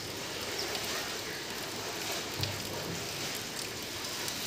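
Light rain falling, a steady even hiss with a few faint drip ticks.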